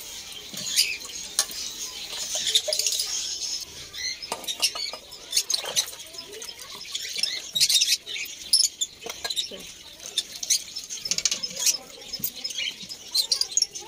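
Bird feeding bowls being rinsed in water, with repeated knocks and clinks as they are handled and set down upside down. Small cage birds chirp throughout.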